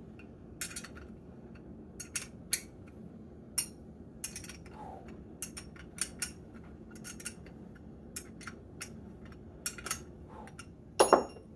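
Small metal parts of a fuel transfer pump clicking and clinking irregularly as they are handled and fitted together, with a louder knock near the end.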